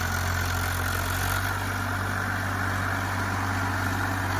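Tractor diesel engine idling steadily, an even drone with no change in speed.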